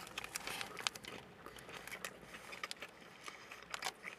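Close-up chewing of a mouthful of breaded chicken burger, with soft crackly clicks and the crinkling of the paper wrapper it is held in.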